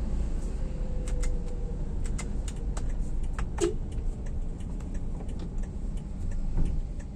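Steady low rumble of a vehicle on the move, with scattered light clicks and rattles, the sharpest about halfway through.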